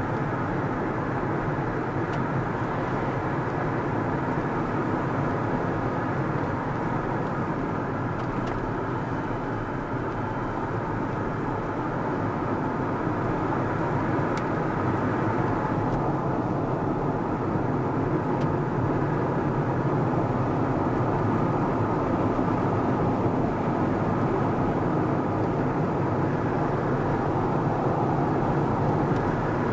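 A car driving along a road: a steady rumble of tyre and engine noise that swells slightly about halfway through.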